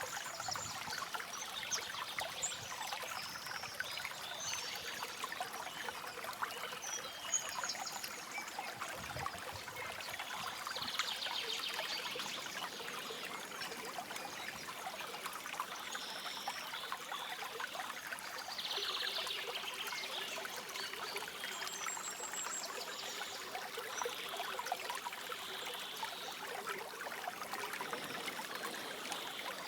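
A stream trickling and babbling steadily. Brief high bird calls and trills come in now and then over the water.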